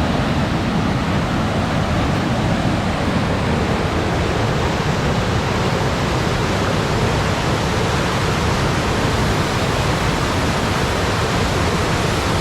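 Steady rush of fast-flowing stream water, running high and swift after rain.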